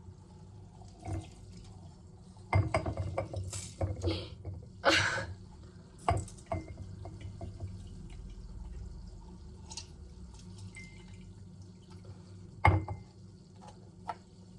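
Orange half being squeezed by hand on a lemon squeezer: wet squishing and dripping juice, with several sharp knocks and rustles between about two and seven seconds in and one more near the end.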